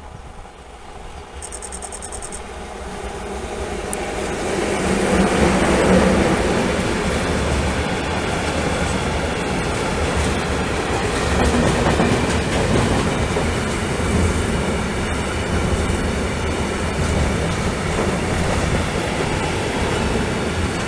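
A freight train of gas tank wagons hauled by a 6Dg diesel locomotive rolls past, with the rhythmic clickety-clack of wheels over the rail joints. It grows louder over the first few seconds and then holds steady.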